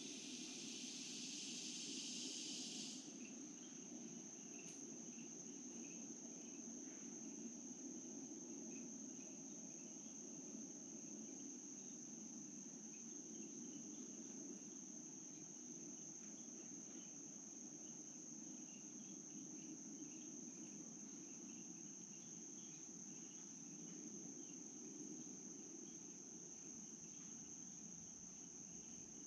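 Faint, steady high-pitched insect trill over the low rush of flowing stream water. A louder hiss in the first three seconds cuts off suddenly.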